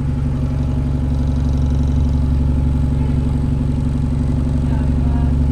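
Bus engine running steadily at a constant speed: a low, even throb with no change in revs.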